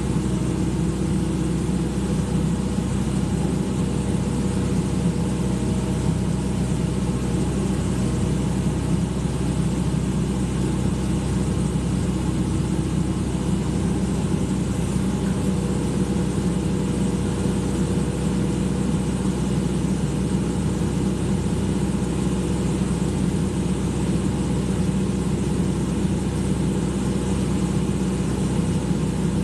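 Excavator's diesel engine running steadily at an even speed, a constant low hum with no change in revs.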